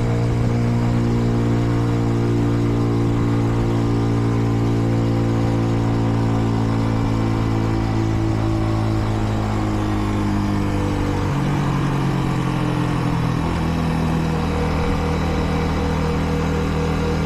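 Kreidler Dice CR 125's single-cylinder four-stroke engine running under way at steady moderate speed. Its note sinks slowly, then changes abruptly about eleven seconds in and settles at a new pitch. The engine is still being run in and held to about 70 km/h.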